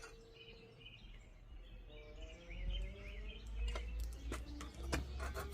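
Small birds chirping in the background over a low steady rumble, with a few sharp clicks and taps in the second half.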